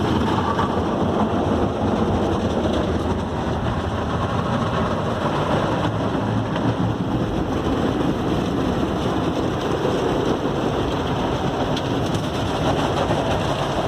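Automatic tunnel car wash running over a van, heard from inside the cabin: a steady rush of water spray and wash equipment on the body.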